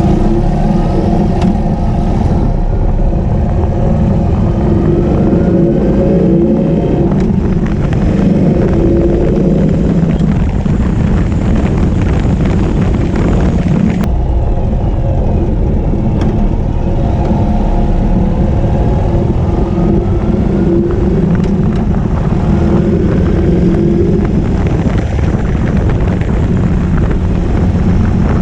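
Ural sidecar motorcycle's air-cooled flat-twin engine running on the road, steady throughout, its pitch climbing several times as it accelerates.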